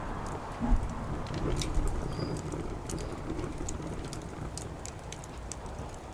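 Wood fire crackling in a fire-disc pit, with scattered sharp pops, over a low rumble that slowly fades. A dull thump sounds a little under a second in.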